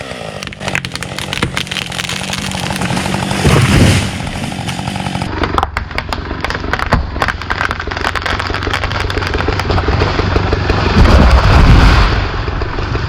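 Husqvarna chainsaw running through a cut, with scattered knocks and clacks over the engine. It is louder about four seconds in and again near the end.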